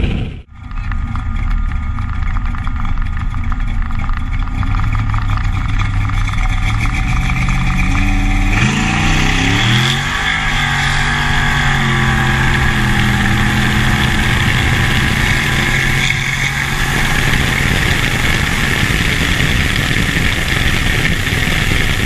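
A Chevy Nova's 548 cubic-inch big-block V8 (Dart block) driving. Its pitch climbs as the car accelerates about eight seconds in, then it runs steady, with rushing wind on the outside-mounted microphone.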